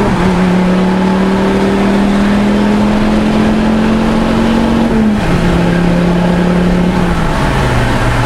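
2005 Volvo S40 T5's turbocharged five-cylinder engine, through a custom side-exit exhaust with the rear muffler deleted, pulling hard at full throttle, heard from inside the cabin. Its note climbs steadily for about five seconds, then drops suddenly on an upshift, and drops again near the end on a further shift.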